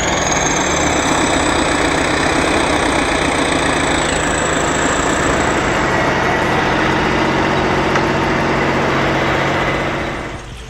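Heavy vehicle engine running steadily and loud, with a thin high whine over roughly the first half; the sound drops away shortly before the end.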